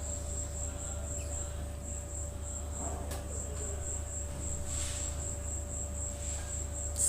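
A cricket chirping steadily: a high, even pulse repeating several times a second over a low steady hum.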